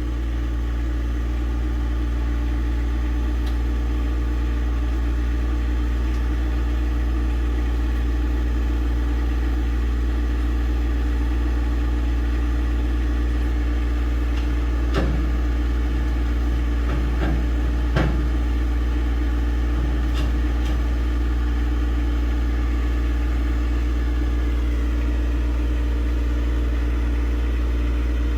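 John Deere tractor engine running steadily at a constant speed, with a few sharp clunks about halfway through.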